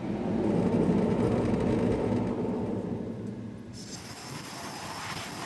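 A low mechanical rumble that swells over the first second and gradually eases, with a high hiss coming in about two-thirds of the way through.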